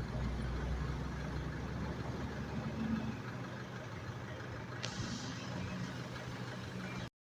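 A truck engine running with a steady low drone, and a single sharp click about five seconds in.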